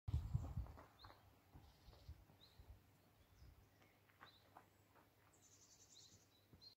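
Quiet outdoor ambience with faint, scattered bird chirps. A few low thumps come in the first second.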